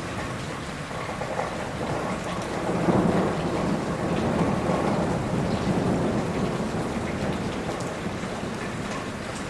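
Steady rain falling, with a low roll of thunder that swells about three seconds in and slowly dies away.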